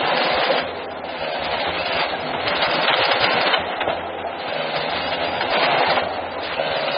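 Heavy forestry machinery working: a loud, rough mechanical noise that comes in surges about a second long over a steady low engine hum.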